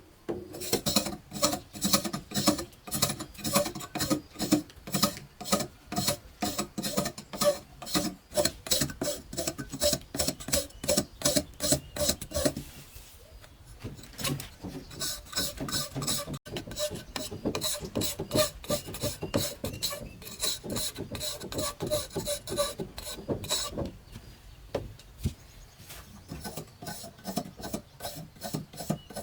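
Repeated rasping scraping strokes, quick and regular at about three a second, with a short break a little before halfway and another near the end.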